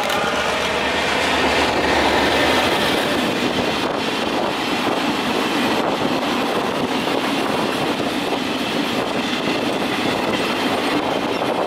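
Freight train passing close by, its wagons rolling past with a loud, steady rumble and the clack of wheels on the rails. A low hum during the first couple of seconds stops.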